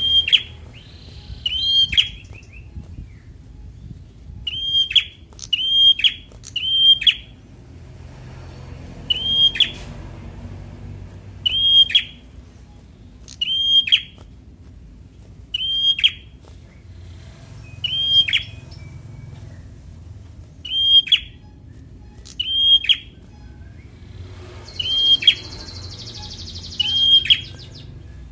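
Prenjak (prinia) calling over and over: short, sharp chirps with a hooked note, about one every one to two seconds, sometimes two close together. Near the end a faint high hiss joins in for a couple of seconds.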